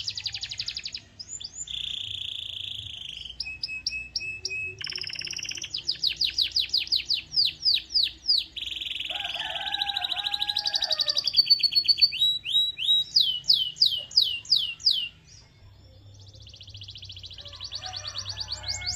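Domestic canary singing a long, fast song of rapid repeated-note trills and rolls, switching from one phrase to another every second or two, with a short lull about three-quarters of the way through.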